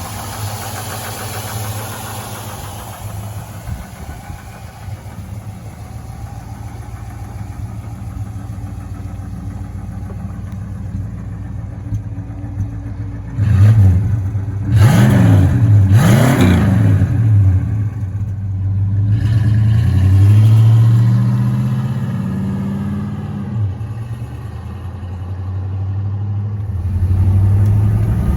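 1962 Oldsmobile Starfire's 394 V8 idling, blipped sharply twice about halfway through, then given a slower, longer rev before settling back to idle.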